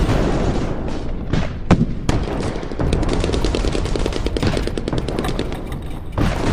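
Airsoft guns firing: a few single shots, then rapid full-auto strings of clicking shots over a steady low rumble.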